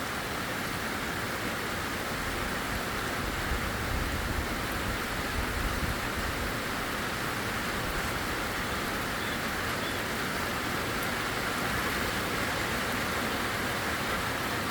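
Heavy tropical downpour: a steady, even hiss of rain with rainwater running off the property.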